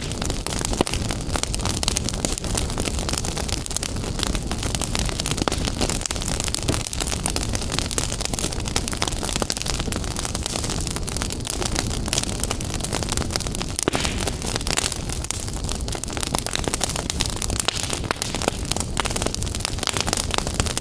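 Wood fire burning in a fireplace, a steady rushing hiss with many small crackles and pops throughout.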